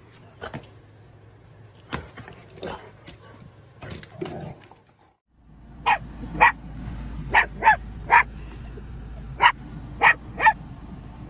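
A dog barking repeatedly: about eight short, sharp barks in the second half, over a steady low rumble. Before that, a few scattered light knocks and clicks.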